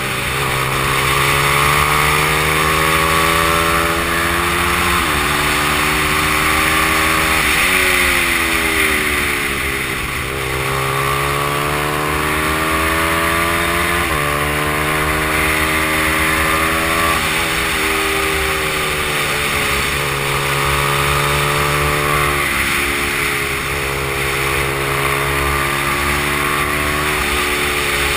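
Stock Honda XR100 mini bike's small single-cylinder four-stroke engine at racing speed. The pitch climbs under throttle and then drops sharply again and again, as at gear changes.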